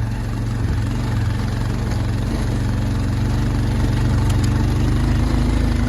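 Motorcycle engine running steadily at low revs, rising a little in pitch near the end.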